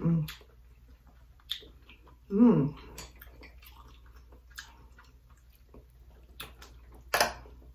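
Close-miked eating: wet chewing and lip smacks of saucy food, with a hummed "mmm" about two and a half seconds in and a sharp click near the end.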